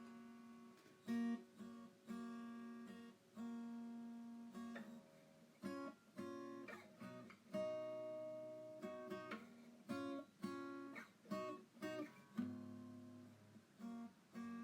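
Background music on acoustic guitar: slow strummed and plucked chords, each ringing out and fading before the next.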